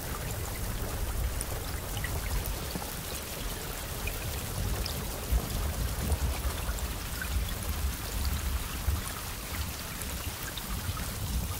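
Steady rainfall, with scattered individual drop ticks over an even wash of rain and a steady low rumble underneath.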